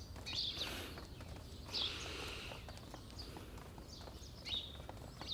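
Quiet outdoor ambience with a few short bird chirps, each falling in pitch, scattered through it.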